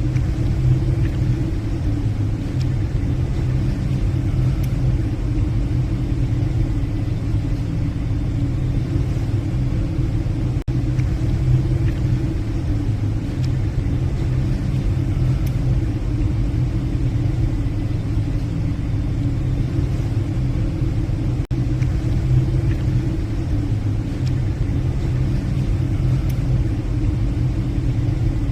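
Steady low rumble of a passenger ship's engines and hull under way, as heard on the ship's bridge.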